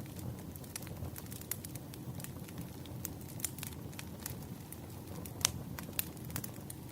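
Wood fire burning: a steady low rumble of flames with frequent sharp crackles and pops, the loudest pop about five and a half seconds in.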